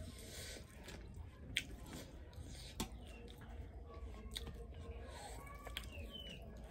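Close-up eating sounds of a person chewing rice and fried fish: wet mouth smacks and sharp clicks every second or so, with soft squishing of rice being mixed by hand.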